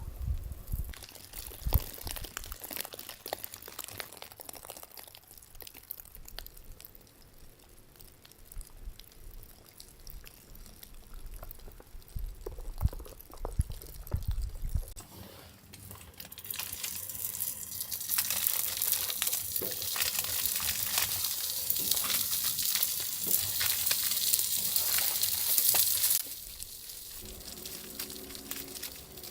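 Scattered small handling clicks and rustles, then food sizzling in a hot pan on the tent stove: a loud steady hiss starting about halfway through that stops abruptly a few seconds before the end.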